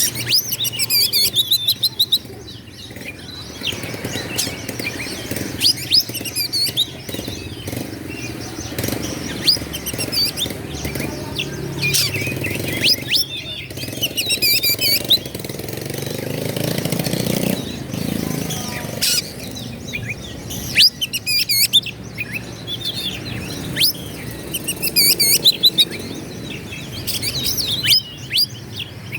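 Oriental magpie-robin singing: bursts of rapid, varied whistled and warbling phrases broken by short pauses. A low rumble runs underneath and swells in the middle.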